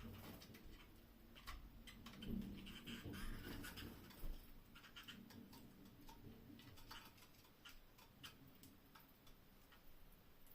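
Faint, irregular ticks and taps from canaries moving about their cage, spaced unevenly and busiest in the first few seconds.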